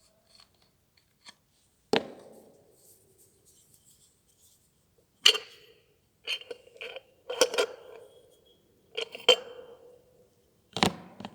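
Metal knocks and clanks from the parts of a Scania centrifugal oil filter being handled and taken apart, about six in all, several leaving a short ringing tone.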